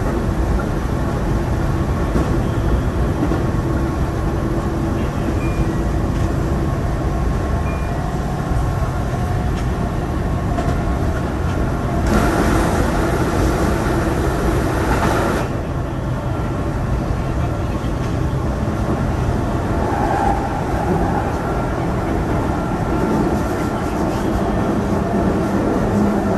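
Keihan electric train running at speed, heard from inside the front car: a steady rumble of wheels on rail with a faint motor hum. About twelve seconds in, an oncoming train passes, a louder rushing noise that lasts about three seconds.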